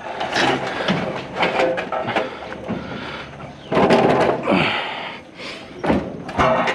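A rusted steel water heater being rocked and dragged across the ground, with irregular scraping, clunking and knocking of its metal shell. The rusted-out bottom catches and grinds instead of rocking smoothly.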